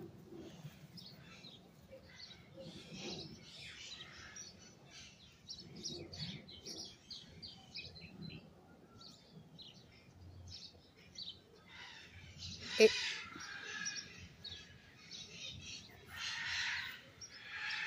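Young birds in a nest shrieking with rapid, dense chirps, the begging calls of chicks being fed. The calls swell louder about thirteen seconds in and again near the end, with one sharp, louder burst around thirteen seconds.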